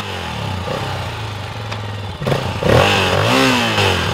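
Kick-start dirt bike's single-cylinder engine running, revved up and back down once about two and a half seconds in.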